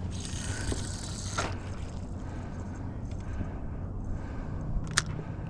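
A boat engine running steadily at low speed, with a rushing hiss over the first second or so and a sharp click near the end.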